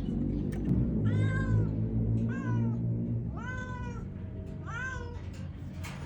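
A domestic cat meowing four times, a little over a second apart, each meow rising and then falling in pitch.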